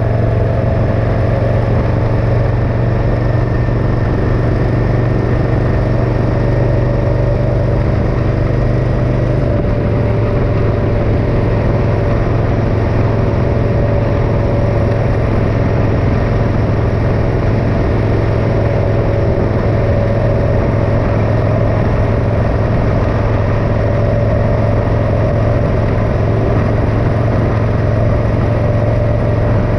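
Motorcycle engine running steadily on the road, its pitch dropping slightly about ten seconds in and then holding steady.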